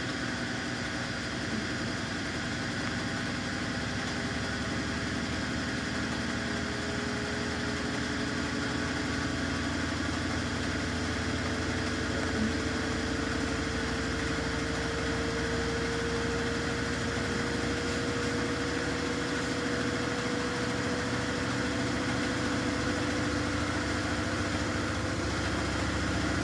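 Samsung washing machine running mid-cycle: a steady machine hum with a motor whine that rises slowly in pitch over the whole stretch.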